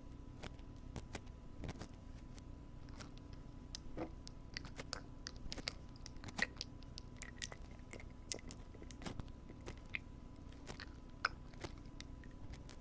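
Wooden ear pick working at a binaural ear microphone: irregular small scratching clicks and crackles, a few a second, over a faint steady hum.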